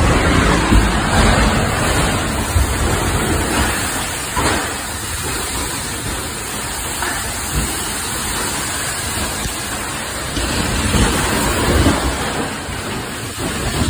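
Severe storm of heavy rain and wind: a loud, dense, continuous rush with uneven swells of low rumbling.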